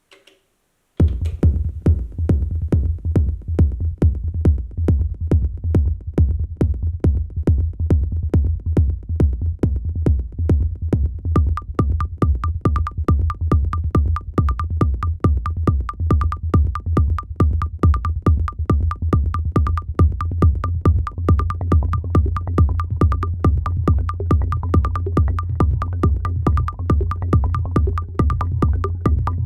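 Electronic music with a steady, heavy bass beat that starts about a second in; a repeating higher synth note joins about eleven seconds in.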